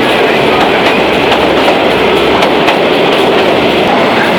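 Kalka–Shimla narrow-gauge toy train running, a loud steady rattle of the coach with wheels clattering over the rails, heard from inside the coach as it passes through a tunnel.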